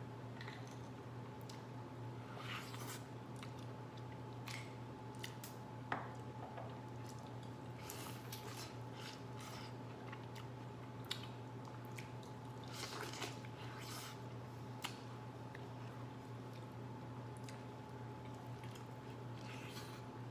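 Close-up chewing and biting of corn on the cob: wet, squishy mouth sounds with scattered short crunches, over a steady low hum.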